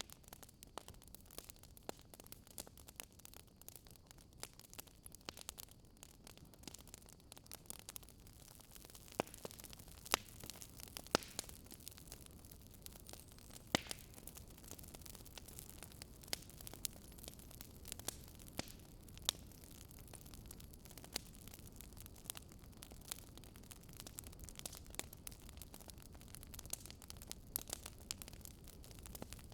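Wood fire burning in a fireplace, crackling: frequent irregular sharp pops and snaps over a soft steady hiss, with a few louder pops scattered through.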